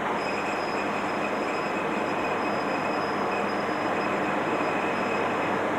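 Narrow-gauge diesel-hauled passenger train running along the track: a steady rumble and rattle with a faint high whine.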